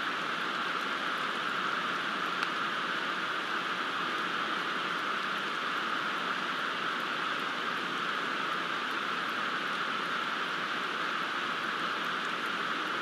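Steady rain falling, with a few faint drip ticks, one a little louder about two and a half seconds in.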